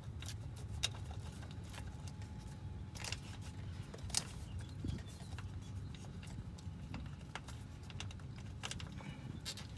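Scattered light clicks and metallic taps of hand tools and the starter's wiring connector being worked loose, with a few sharper clicks, over a low steady hum.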